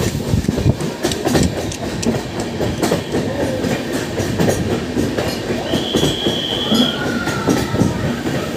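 Passenger train running, its wheels clattering over the rails. A brief high-pitched squeal of the wheels is heard about six seconds in.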